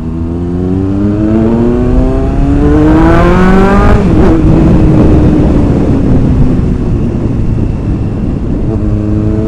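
Kawasaki ZX-9R's inline four-cylinder engine accelerating, its pitch rising steadily for about four seconds, then dropping suddenly as the rider changes up or rolls off the throttle, and running on lower and steadier before picking up again near the end.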